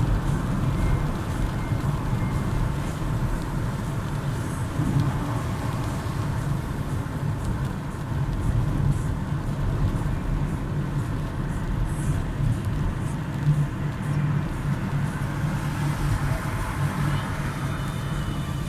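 Steady low drone of a car's engine and tyres on a wet highway, heard from inside the car in heavy rain.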